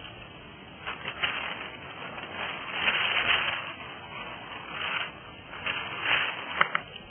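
Kayak paddle strokes swishing through the water in uneven swells about every second or so, with a couple of sharp clicks near the end.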